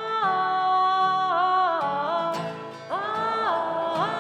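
A woman singing a wordless 'ah' part in long held notes that step up and down in pitch, over acoustic guitar strumming.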